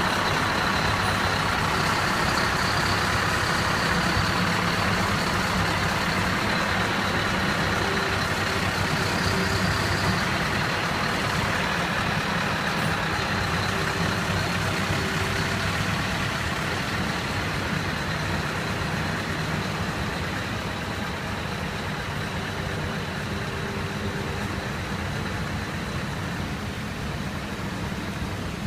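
Large truck's engine running steadily, growing a little fainter over the last third.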